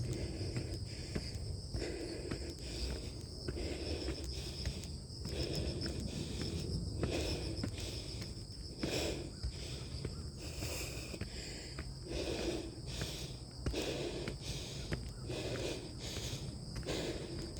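A person breathing hard and groaning on the breaths while climbing stairs, a groan about every second, with footsteps. A steady chirring of insects runs underneath.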